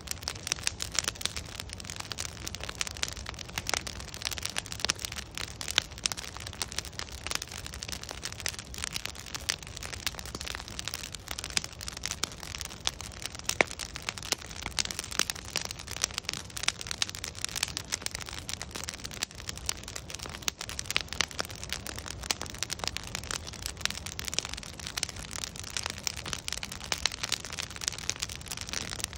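Wood fire burning, its logs crackling with many sharp irregular pops over a steady low rumble of flame.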